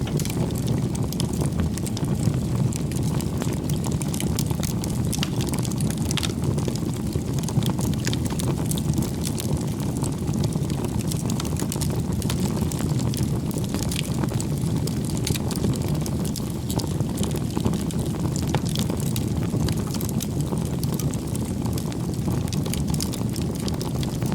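Firewood burning in an open campfire: a steady low rumble of flames with frequent small crackles and pops scattered throughout.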